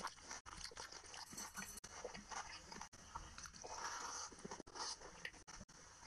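Close-up eating sounds: wet chewing and lip smacks in a string of small clicks, along with the squelch of fingers mixing rice and curry on the plate.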